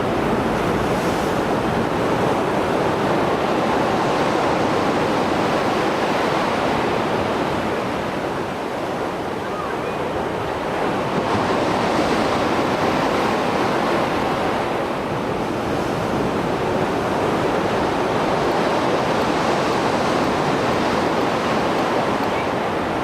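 Mediterranean surf after a storm: waves breaking and washing in a continuous rush, easing briefly about eight seconds in before surging again.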